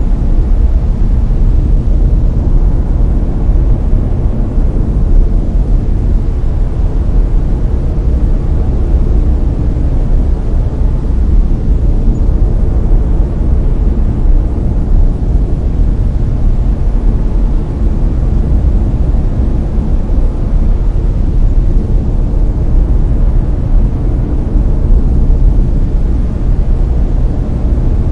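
Layered brown noise: a steady, deep rumbling hiss, strongest in the bass, with the higher hiss swelling and fading slowly.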